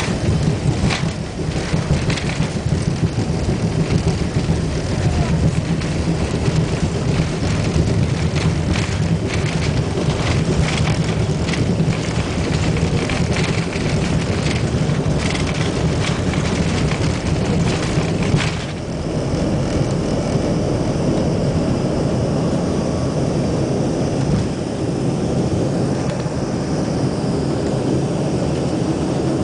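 Aircraft in flight: steady, loud engine and airflow noise with crackling through most of the first two-thirds. A little past halfway it changes to a smoother, even drone with a faint high whine.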